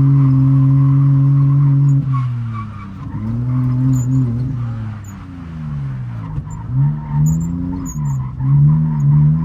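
Drift car's engine held at high revs for about two seconds, then dropping and climbing again and again as the throttle is lifted and re-applied, with tyres skidding.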